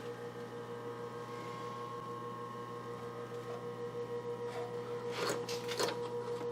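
Steady electric hum of the old Brown & Sharpe #1 cylindrical grinder's motor running, with a few sharp clicks or knocks about five to six seconds in.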